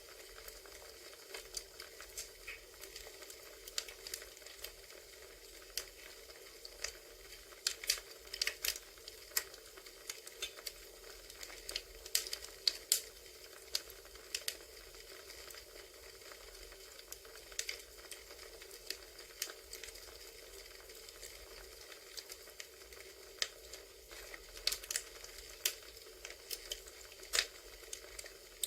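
Crackling campfire: a steady hiss with irregular sharp pops and snaps from burning wood, bunching into quick runs now and then.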